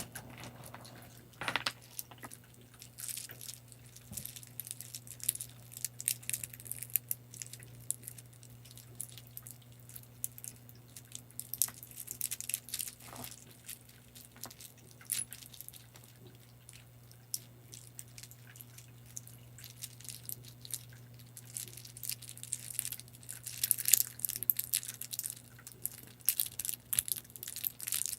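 Close-up prop handling for ASMR: irregular crisp ticks, taps and scratchy rustles, busiest near the end, over a steady low hum.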